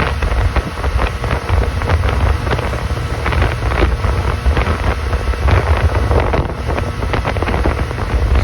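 Motorboat under way with a steady low engine rumble, and wind buffeting the microphone throughout.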